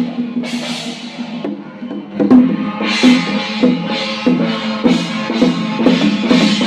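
Percussion music with drum beats and cymbal crashes: after a quieter opening stretch, regular strikes about every 0.6 s set in around two seconds in, over a steady sustained tone.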